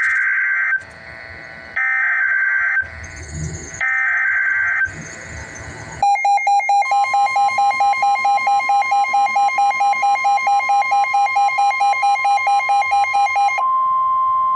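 Midland WR120 weather radio receiving a NOAA Weather Radio alert. First come three roughly one-second bursts of the SAME digital header, a harsh data warble. Then the long steady Warning Alarm Tone starts, with the radio's own rapid alert beeping, about five beeps a second, laid over it for several seconds before the beeping stops and the steady tone carries on.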